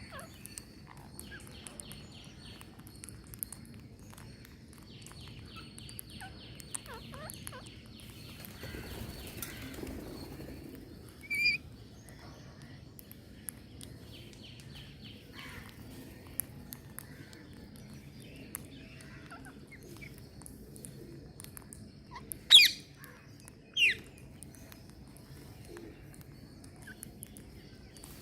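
Green parrots giving three short, loud squawks, one about eleven seconds in and two close together near the end, the middle one the loudest, over soft chirps and scattered small clicks, with a brief rustle of wings a little before the first squawk.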